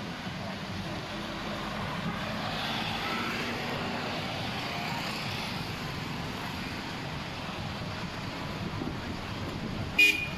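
Street ambience of passing traffic, a steady noise. A short, sharp, louder sound with a ringing tone comes near the end.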